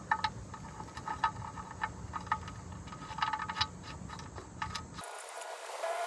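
Irregular light metallic clicks and clinks with a short ring as the steel oil drain plug is threaded back into the oil pan. The low background hum cuts out abruptly about five seconds in.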